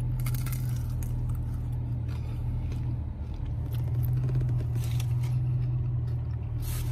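Someone biting and chewing fried chicken wings, with small crunches and crackles, over a steady low hum.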